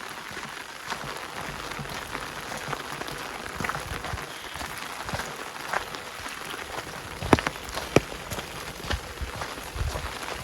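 Rain pattering in a forest: a steady hiss of falling rain with scattered drops ticking close by, and two much louder sharp drop hits a little past the middle.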